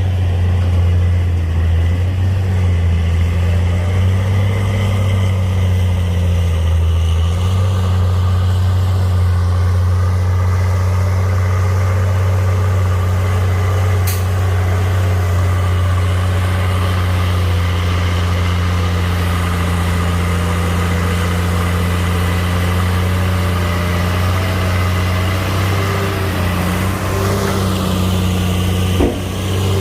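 Heavy diesel earthmoving machine engine running with a steady, low drone, with a short knock near the end.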